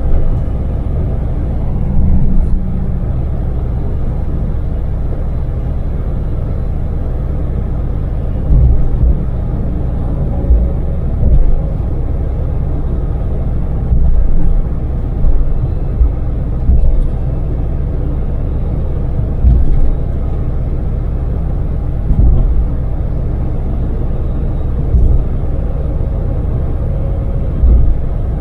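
A Daewoo Damas microvan's LPG three-cylinder engine and road noise, heard from inside the cabin on an expressway: a steady low rumble, with brief louder low thumps every few seconds.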